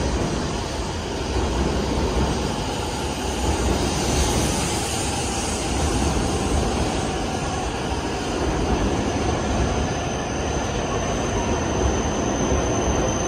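E7-series Shinkansen pulling out of the platform, a steady rolling rumble and hiss. A thin high whine comes in near the end.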